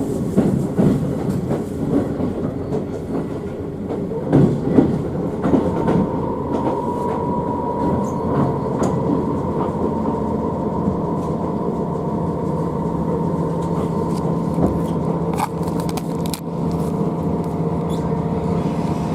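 Toyama Chiho Railway electric train heard from on board. For about six seconds it is an uneven rumble with scattered clicks; after that it settles into a steady hum made of several level tones.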